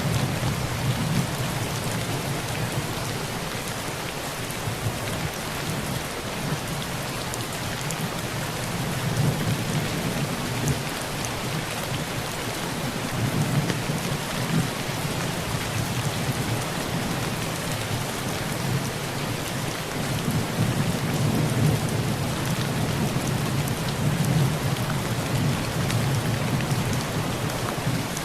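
Heavy rain pouring on a tin roof: a steady hiss with scattered sharp drop ticks. Low thunder rumbles under it, swelling and fading several times.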